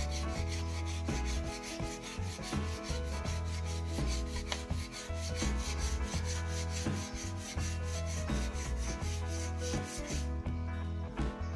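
Sandpaper rubbing on a new wooden snooker cue shaft in rapid, even strokes, over a steady low hum. The rasping falls away about ten seconds in while the hum carries on.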